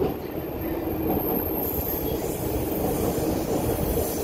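SkyTrain car running along the elevated guideway overhead: a steady rumble with a high hiss that grows from about a second and a half in.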